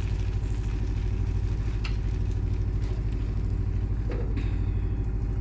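Steady low mechanical rumble of a motor running continuously, with a fast, even throb, and a faint click or two, about two and four seconds in.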